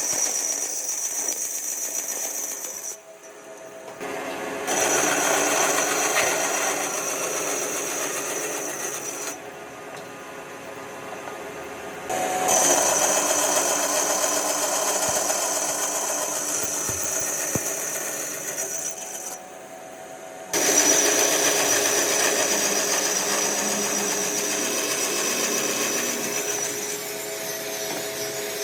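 A power tool's motor runs with a high whine in several stretches of work, dropping away briefly about three, ten and twenty seconds in.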